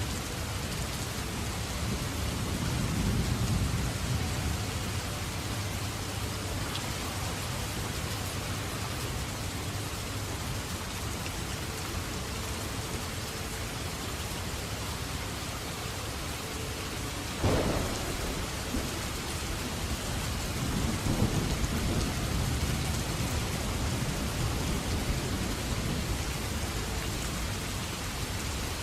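Steady heavy rain with thunder: low rumbles a few seconds in, a sharp thunderclap just past halfway, and more rolling rumble a few seconds after it.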